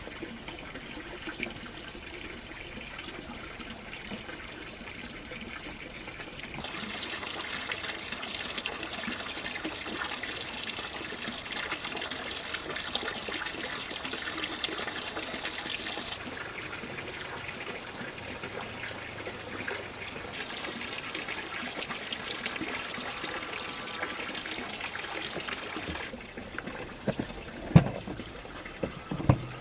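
Water trickling and splashing, with two sharp knocks near the end.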